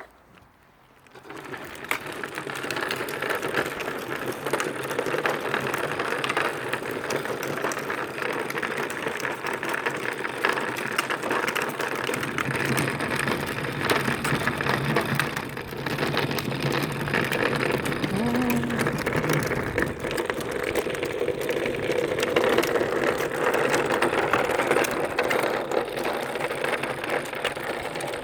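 A tractor's motor and gears start up about a second in and then run steadily as it drives.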